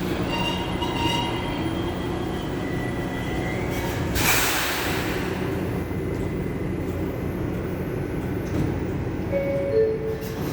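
R142 subway train in the station, its wheels and motors rumbling steadily with faint wheel squeal. A loud burst of air hiss comes about four seconds in, and two short descending tones sound near the end.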